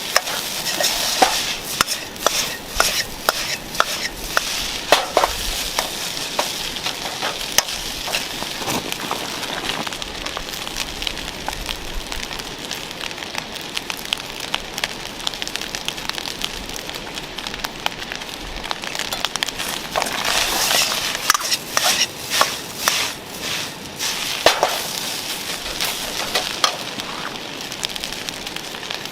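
Fried rice sizzling in a pan over a wood campfire, stirred and scraped at intervals, with the fire crackling and popping throughout.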